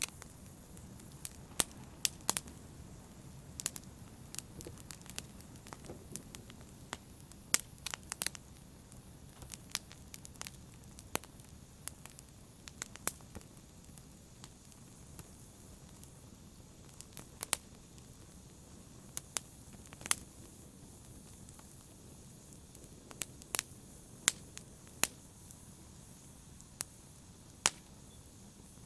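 Wood fire burning in a fireplace: a low, steady rumble of flames with sharp, irregular pops and crackles scattered throughout, some much louder than others.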